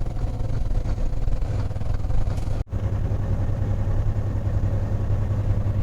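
Semi-truck's diesel engine running steadily under way, a low hum with road noise heard from inside the cab. The sound drops out for an instant about two and a half seconds in, then the low hum comes back slightly stronger.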